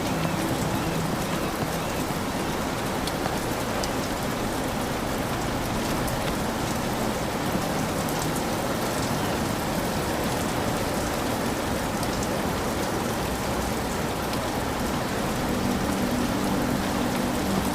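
Heavy rain falling steadily on a hut's roof, an even, unbroken downpour.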